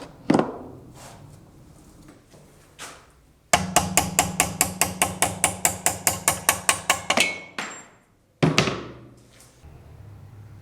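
Hammer striking metal. A single blow comes first, then a fast, even run of about twenty blows at roughly five a second, ending in a brief metallic ring, then one more ringing blow.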